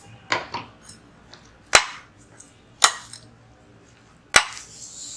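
Spoon knocking against the mixing bowl while stirring a bread-crumb and milk cake batter: a few sharp clinks spaced about a second apart, with softer stirring sounds between.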